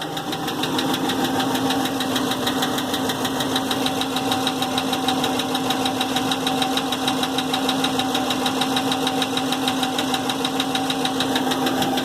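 2016 6.4-litre Hemi V8 running with a fast, even engine knock.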